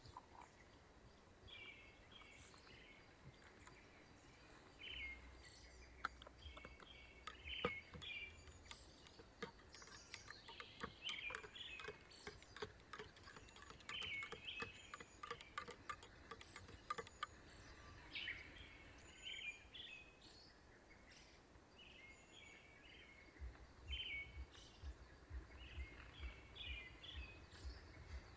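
Faint birds chirping and calling over near-silent outdoor ambience, with scattered soft ticks and, near the end, low gusty rumbles.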